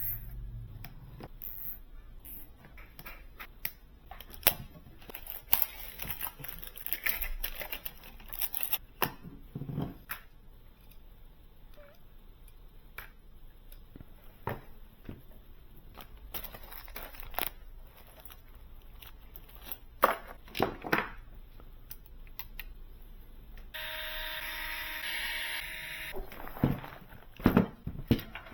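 Scattered small clicks and knocks of computer parts and tools being handled during a desktop PC build, with a steady whirring tone lasting about two seconds near the end.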